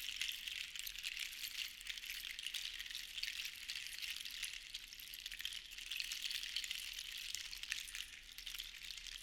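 Many small seashells rattling and clattering against one another in a dense, fine patter that swells and eases every few seconds.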